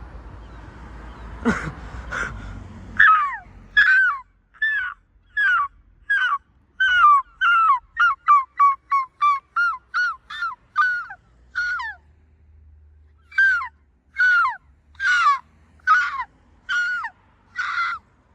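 Seagull calling a long run of loud, downward-sliding calls. The calls come faster, about three a second, in the middle, stop briefly, then go on.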